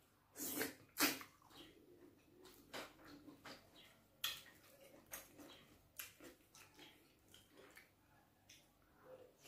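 Close-miked wet eating sounds of fufu with bitter leaf soup: irregular chewing and lip smacks, the loudest two about half a second and a second in.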